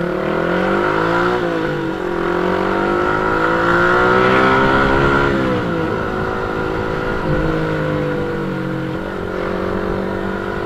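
Motorcycle engine running under the rider. Its pitch rises as it accelerates, dips briefly about a second in, rises again, then drops about five and a half seconds in and holds fairly steady while cruising.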